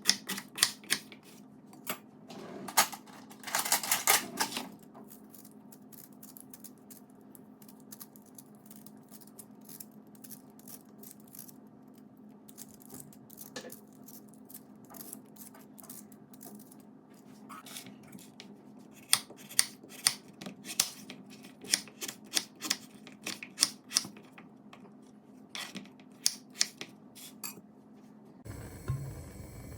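Kitchen handwork: irregular sharp taps and clicks of utensils on hard surfaces, in two busy spells, with a short rustle about four seconds in.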